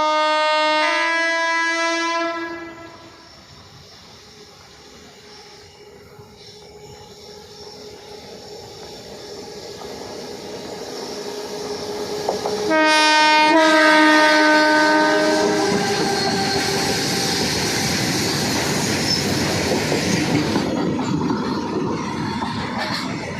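Indian Railways electric locomotive horn sounding a long two-part blast that stops about two seconds in. The noise of an approaching train then builds, the horn sounds again in two parts about 13 seconds in, and the train passes with a steady rumble and clatter of wheels on track.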